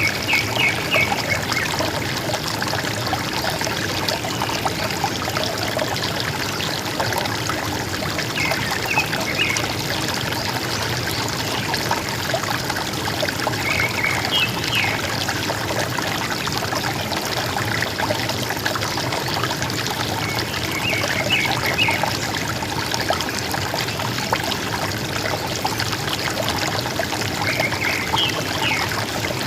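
River water flowing and gurgling steadily, with a forest bird giving a short call of a few quick high notes about every six or seven seconds.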